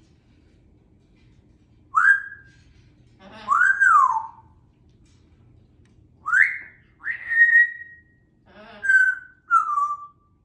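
African grey parrot whistling: a series of about seven short whistles starting about two seconds in, some rising, one rising then falling, one held steady and others falling.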